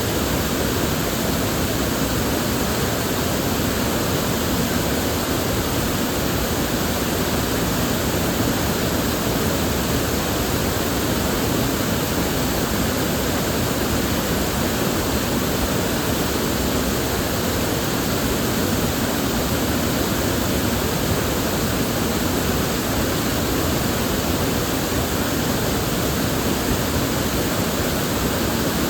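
River water flowing steadily, an even rushing that does not change.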